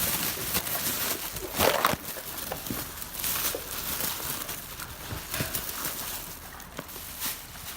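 A Dogo Argentino chewing raw chicken, with irregular sharp crunches as the bones break between its teeth; the loudest crunch comes a little under two seconds in.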